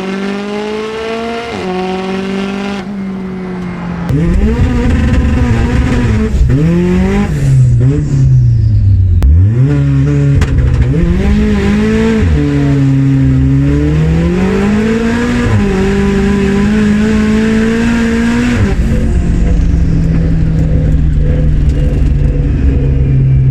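Turbocharged Saab B204 four-cylinder drag engine with screamer pipes, revved up and down again and again. It gets much louder about four seconds in and settles to a steady engine speed for the last few seconds.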